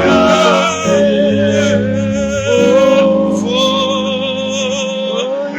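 Church worship music: a voice sings long held notes with a wavering pitch over sustained chords that change every second or two.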